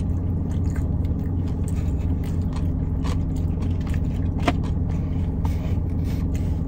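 Chewing and small mouth clicks while eating pizza, over a steady low hum inside a car's cabin; one sharper click about four and a half seconds in.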